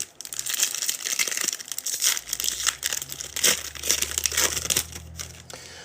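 Foil trading-card pack wrapper crinkling and crackling as it is torn open and handled, a dense run of small crackles throughout.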